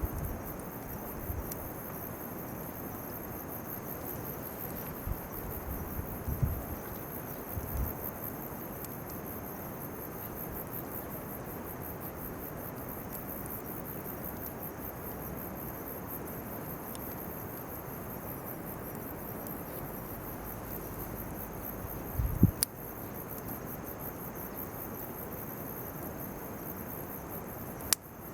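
Insects chirring steadily and high-pitched in a continuous rapid pulse. A few short knocks break in, the loudest about twenty-two seconds in.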